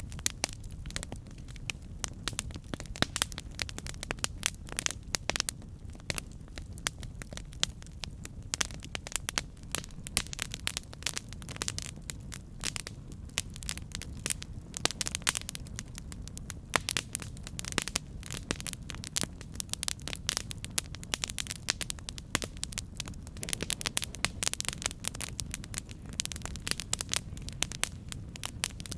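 Campfire burning: a steady low rumble of flames with dense, irregular crackles and pops from the burning wood.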